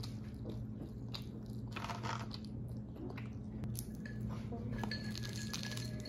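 Crunchy chewing of roasted seaweed snacks, with scattered crackles and clicks from a clear plastic clamshell container being handled.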